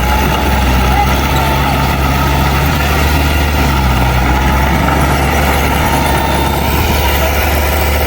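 Heavy diesel engine of earthmoving machinery running steadily with a low drone and a faint wavering whine above it.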